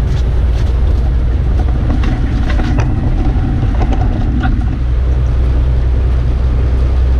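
Truck cab noise while driving at highway speed: a steady low rumble from the road and engine, with scattered light clicks and rattles in the middle.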